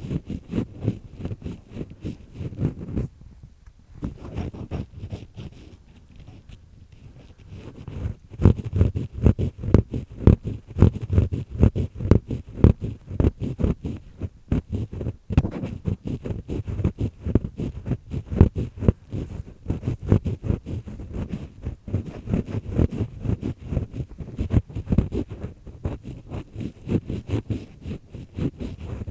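Ear pick scraping inside an ear canal: rapid, rough scratching strokes. They ease off for a few seconds, then grow louder and denser from about eight seconds in.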